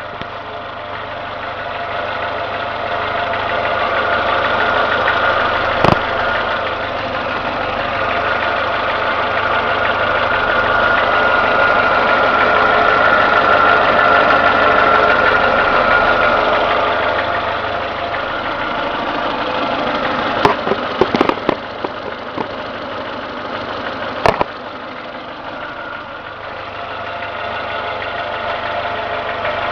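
Renault Logan engine running with a knock that comes only once the engine has warmed to two divisions on the temperature gauge and is absent when cold; the owner does not know what is knocking. A few sharp clicks sound about six seconds in and again around twenty to twenty-four seconds in.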